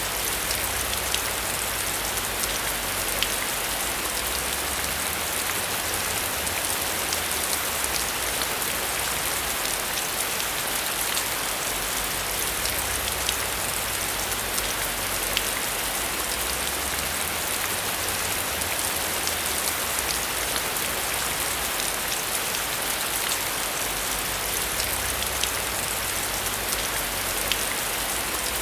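Heavy rain falling steadily: a dense patter of individual drops over a constant hiss. A low rumble underneath swells and fades every few seconds.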